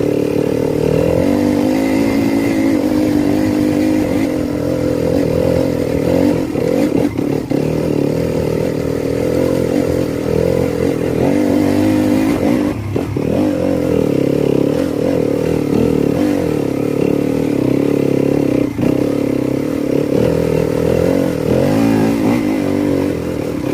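Motocross dirt bike engine running hard and revving up and down as it is ridden, with a few brief drops in engine noise when the throttle comes off.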